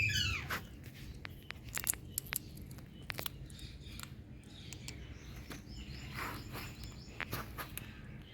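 Indian green parrot giving one call that falls steeply in pitch at the start, followed by scattered sharp clicks and a fainter call about six seconds in.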